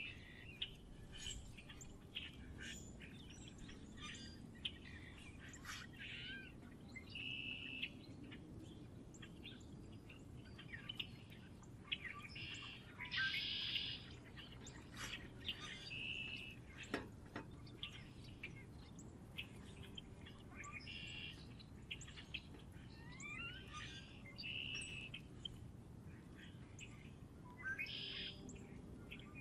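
Several wild birds chirping and calling around a feeder, many short chirps and a few rising whistles, over a faint steady background.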